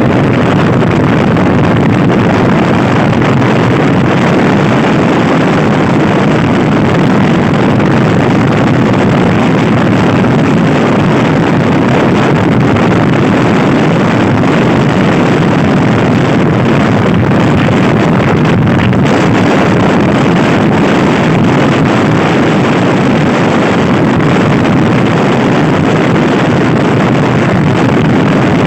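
Loud, steady wind rushing over the microphone of a Honda Scoopy-i scooter being ridden fast, drowning out the engine.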